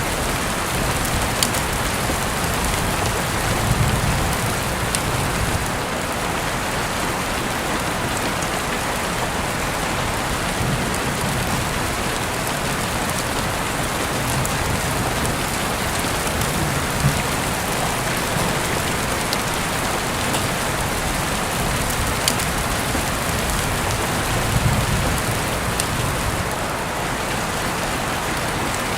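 Heavy rain falling steadily, with a few sharper drop hits now and then.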